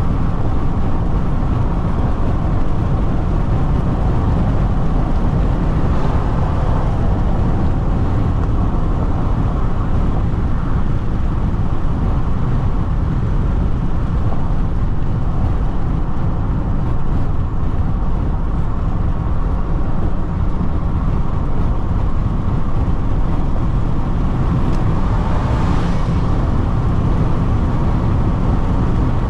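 Inside the cabin of a Jeep Renegade Diesel driving at speed on the highway: a steady low rumble from the engine and the road. A brief swelling hiss comes near the end.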